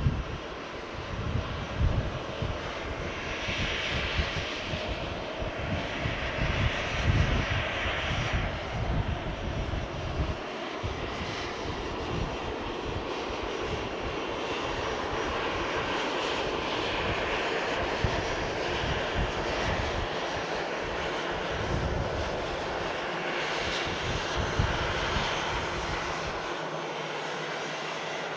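Jet airliner taking off: a steady engine roar, with irregular low rumbles through the first half.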